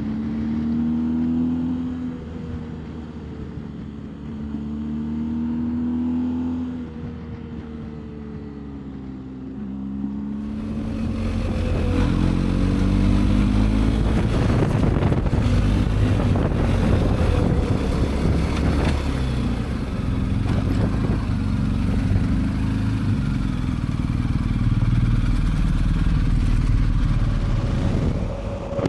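BMW R1250GS boxer-twin engine running on the road, its pitch rising and falling as the bike changes speed and gear. About ten seconds in, loud wind noise on the microphone swells and largely covers the engine.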